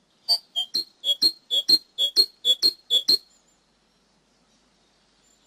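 Cinereous tit (gelatik batu) song: a quick run of two-note phrases, a higher note and then a slightly lower one, repeated about six times, stopping a little over three seconds in.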